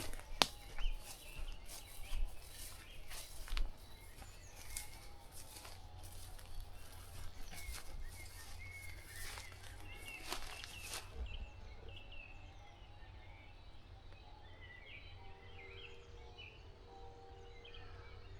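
Several birds chirping and singing in woodland. For the first eleven seconds or so, footsteps crunch through undergrowth, then stop.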